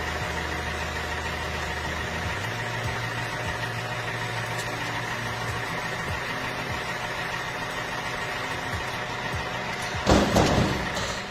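Engine idling steadily, its low hum shifting pitch slightly about two seconds in, with a louder rushing burst about ten seconds in.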